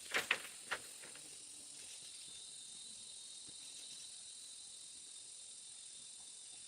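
Insects chirping steadily in a high-pitched chorus. Three brief, louder sounds come in the first second.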